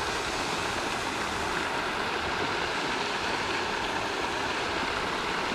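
Pond fountain splashing: a steady, even rush of falling water.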